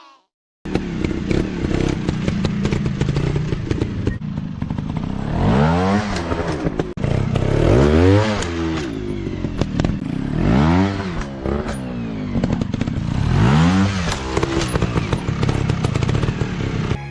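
150 cc dirt bike engines revving up and back down four times, a couple of seconds apart, over a steady engine drone with clattering knocks. The sound starts after a brief silence.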